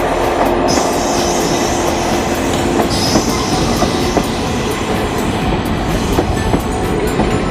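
Shinano Railway 115-series electric train rolling over a siding level crossing, its wheels clacking steadily. Two brief high-pitched squeals come in, about a second in and again about three seconds in.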